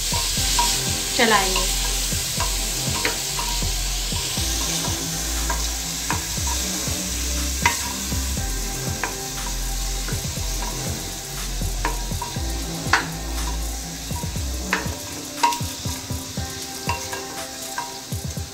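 Chopped vegetables sizzling as they fry in an open aluminium pressure cooker, stirred with a wooden spatula. The spatula makes scattered scrapes and taps against the pot over a steady frying hiss.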